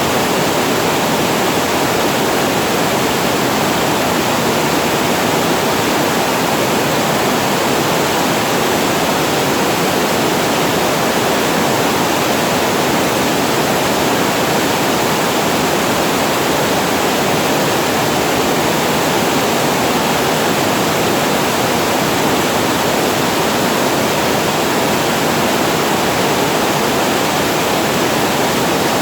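Water falling over the spillway below a reservoir weir: a steady, loud rush of falling water that does not change.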